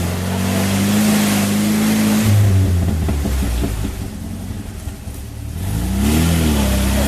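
Off-road 4x4's engine revving as it pulls away under load, pitch climbing over the first two seconds, easing off in the middle, then revving up again about six seconds in, with a rushing hiss alongside.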